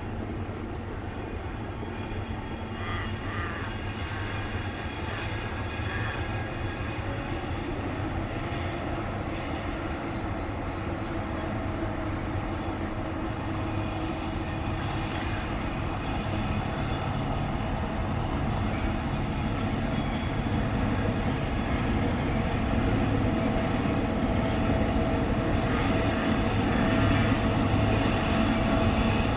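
Approaching freight train hauled by TasRail TR class diesel-electric locomotives: a low engine rumble growing steadily louder, with a thin high steady tone running over it.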